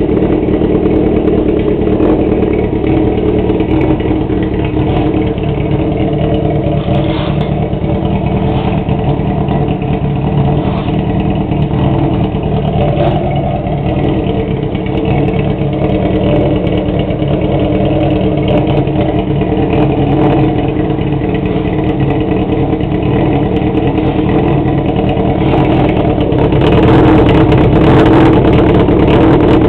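Honda CB400 Super Four's inline four-cylinder engine running through a straight-through exhaust, steady and loud, getting a little louder near the end.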